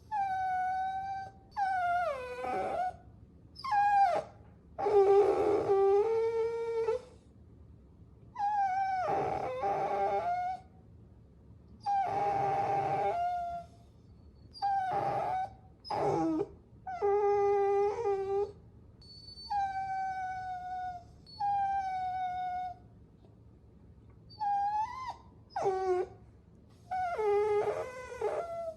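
Puppy whining: a string of short, high-pitched whimpering cries with brief pauses between them, some sliding down in pitch and some bending up.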